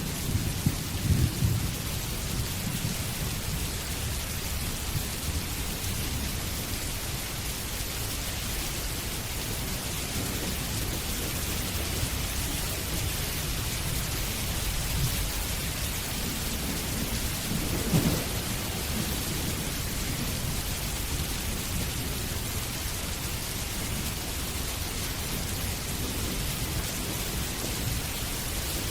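Steady rain with thunder, rumbling low in the first couple of seconds and again in a short, sharper peal about eighteen seconds in.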